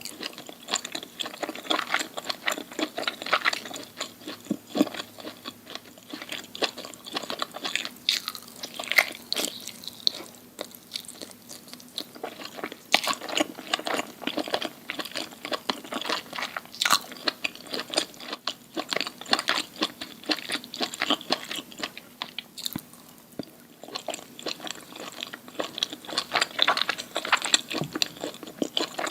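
Close-miked eating: loud crunching bites and chewing of food, a dense run of crisp crackles with a couple of brief pauses.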